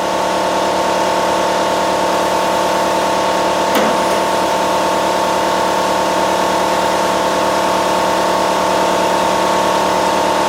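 Sandblaster in use with the air compressor that feeds it running: a steady mechanical hum with a hiss of blast air over it, and a single brief tap about four seconds in.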